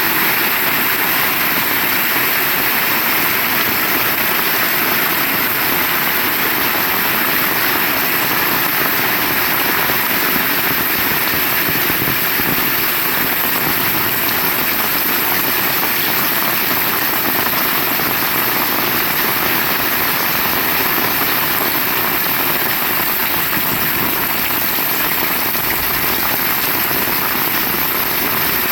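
Heavy rain falling, a steady, dense downpour with no letup.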